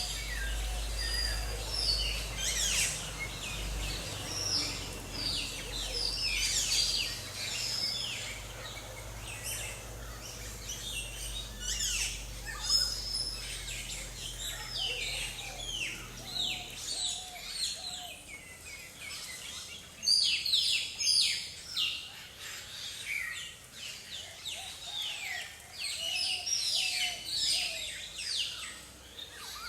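Several forest birds calling together: a dense run of quick, high, downward-sweeping chirps and short whistles. A faint low rumble sits under the first half and drops away partway through.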